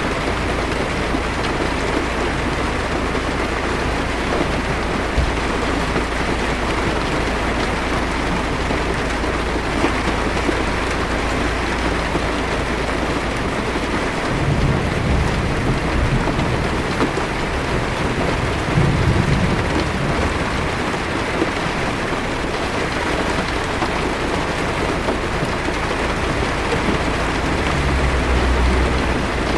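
Heavy rain pattering steadily on a car's roof and windshield, heard from inside the car. Low thunder rumbles about halfway through, again a few seconds later, and near the end.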